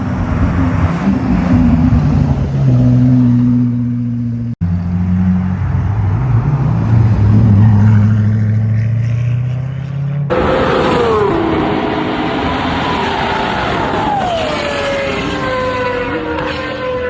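High-performance car engines in edited clips. First come low, deep engine notes with small rises and falls in revs, broken by an abrupt cut. About ten seconds in, a higher-pitched engine note starts suddenly and falls steadily in pitch, as a car passing by or coming off the throttle does.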